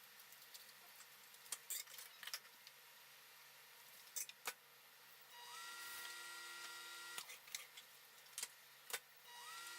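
Faint clicks and light knocks of kitchen handling, with a steady electric appliance hum that comes on twice: first about halfway through for nearly two seconds, then again near the end, each time with a tone that rises and then holds.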